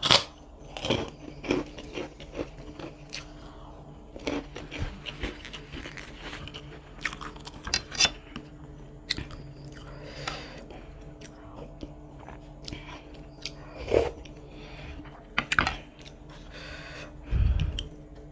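Close-up mouth sounds of someone eating chicken noodles with meatballs: irregular chewing and biting with wet clicks and some crunching. A dull low thump comes near the end.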